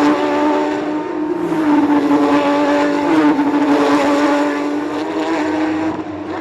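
Porsche Cup race cars' flat-six engines running at high revs. The engine note holds steady, with short pitch changes about one and a half and three seconds in, and falls off a little in level near the end.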